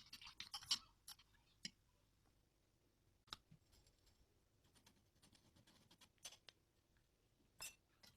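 Faint, scattered clicks and taps of a spoon stirring the glaze mixture in a bowl, with near silence between them; most of the taps come in the first second.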